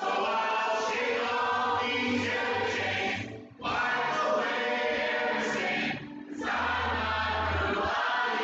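Church choir singing a worship song over low held bass notes from the accompaniment, in three long phrases with brief breaks between them.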